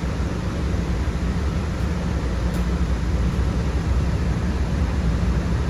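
Steady running noise of a Sound Transit Link Series 1 light rail car in motion, heard from inside: a low rumble with an even hiss over it.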